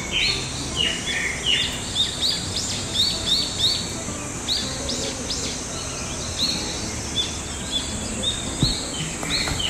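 Forest birds calling: a run of short, repeated chirps, thickest in the first four seconds and sparser after. Underneath is a steady background hiss.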